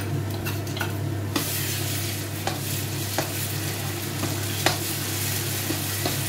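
Ground masala paste tipped into browned onions frying in hot oil in a steel kadai. The sizzle jumps up sharply about a second and a half in, then a steel ladle stirs and scrapes the pan with a few sharp clinks, the loudest about two-thirds of the way through.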